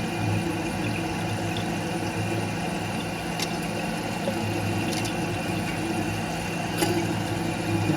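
A steady low mechanical hum, like a small motor running, with a few faint clicks.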